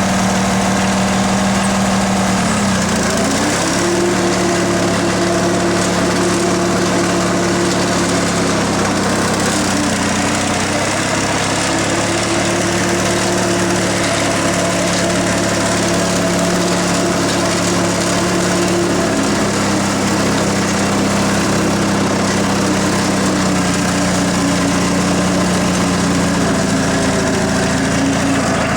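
Lawn tractor's 16 hp Briggs & Stratton opposed-twin engine running steadily. Its note dips and recovers about three seconds in, runs a little higher for a while, then settles back lower about two-thirds of the way through.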